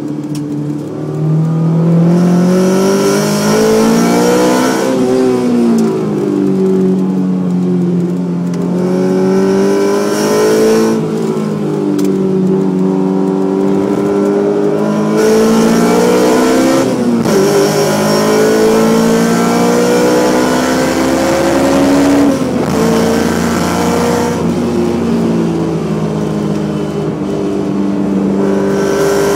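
Honda S2000's four-cylinder engine with Spoon cams pulling hard through the gears: the pitch climbs under acceleration and drops sharply at each upshift, four times in all.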